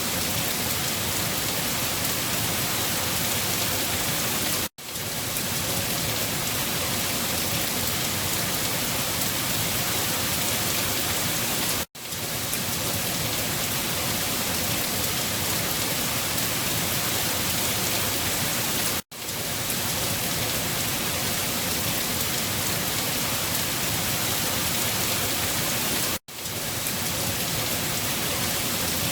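Steady, dense rain hiss. It cuts out briefly four times, about every seven seconds, and fades back in each time.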